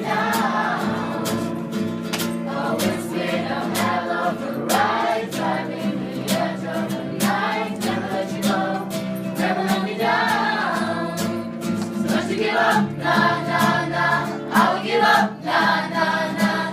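A group of voices singing together in chorus, with a steady beat underneath.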